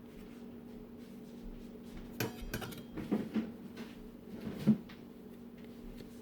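Kitchen handling sounds: a scattering of light knocks and clatters, as of utensils or dishes being set down and moved, between about two and five seconds in, the sharpest near the end of that stretch. A steady low hum runs underneath.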